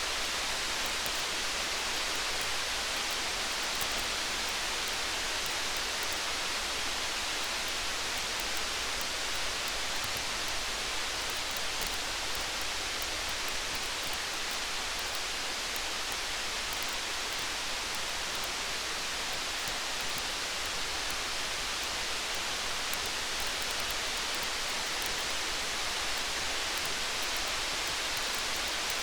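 Steady rain hiss with faint, scattered crackles from a campfire, as a continuous ambience.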